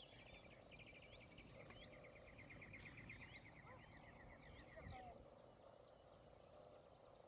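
Faint outdoor birdsong: a rapid trill of quickly repeated high notes lasting a few seconds, with scattered short chirps, over low background noise.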